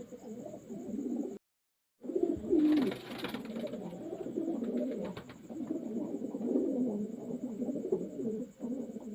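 Many pigeons cooing together in a continuous low, overlapping warble. It cuts to silence for about half a second a little over a second in, and a loud rustling burst with clicks comes around three seconds in.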